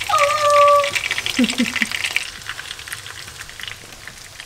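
Breaded crappie fillets crackling and sizzling as they shallow-fry in peanut oil. The crackle thins out about two seconds in. Near the start there is a short steady tone, and about a second and a half in a brief vocal sound.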